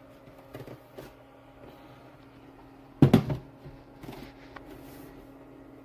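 Knocks and clunks of a small plastic mini fridge being handled, with a loud knock about three seconds in and a few lighter ones around it, over a steady low hum.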